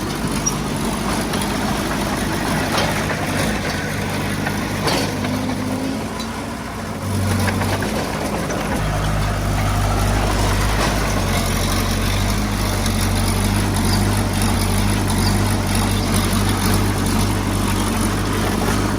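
Heavy-equipment diesel engine running steadily. It eases off about six seconds in, then picks up and runs harder from about nine seconds in.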